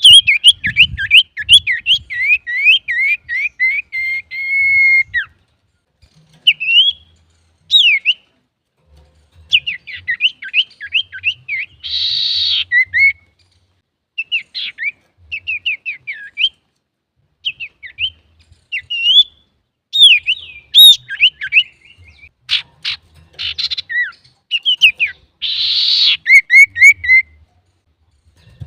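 Male common iora (cipoh) singing lively phrases of rapid, downslurred whistled notes, separated by short pauses. Twice, once around the middle and once near the end, it gives a brief harsh, rasping call.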